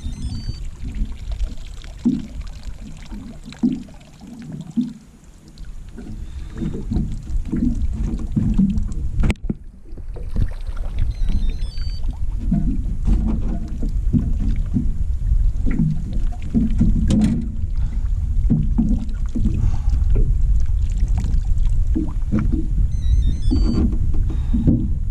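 Water slapping irregularly against a small boat's hull over a steady low rumble of wind on the microphone.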